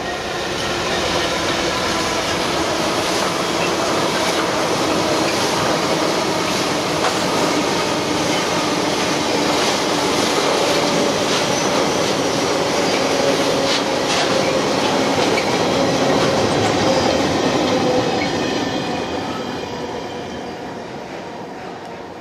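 GB Railfreight Class 66 diesel-electric freight locomotive passing at speed, its engine followed by a long rake of empty flat wagons rumbling and clattering over the rails with occasional sharp clicks at rail joints. The noise rises in the first second, holds steady, then fades away over the last few seconds.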